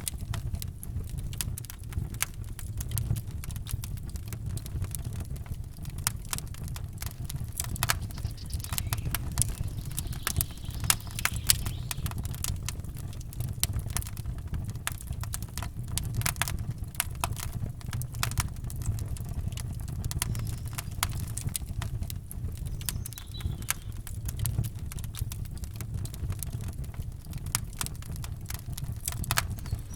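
Campfire crackling: a continuous stream of irregular sharp snaps and pops over a steady low rumble.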